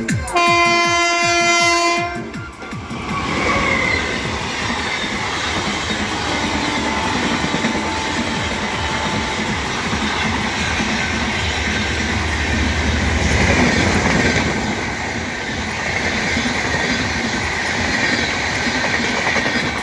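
A locomotive horn sounds one blast of about a second and a half. Then a passenger train of LHB coaches runs past with steady rushing wheel-on-rail noise and clickety-clack from the wheels.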